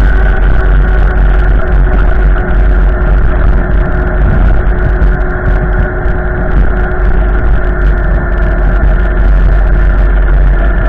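Strong storm wind buffeting the microphone: a loud, deep, steady rumble with a few steady whistling tones over it.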